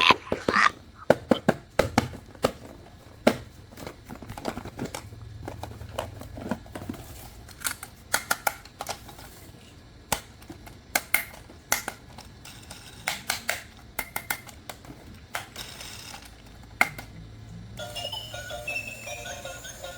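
Scattered sharp clicks and knocks at an uneven pace, with music starting near the end.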